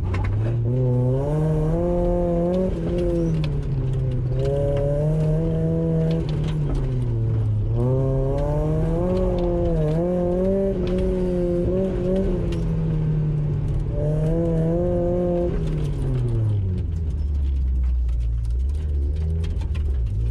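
Car engine heard from inside the cabin during an autocross run, revving up and falling back again and again as the car accelerates and slows between cones. About 17 seconds in it settles to a low, steady drone.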